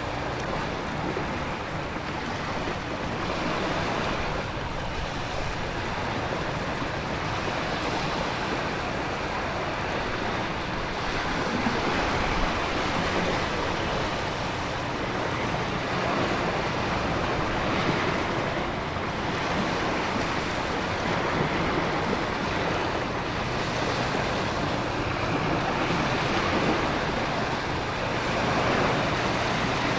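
Storm ambience: ocean surf swelling and breaking in slow surges under a steady hiss of heavy rain and wind.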